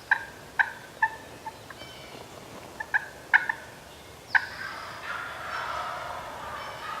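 Wild turkeys calling: a string of short, sharp notes in the first few seconds, then a longer rattling gobble starting about four and a half seconds in.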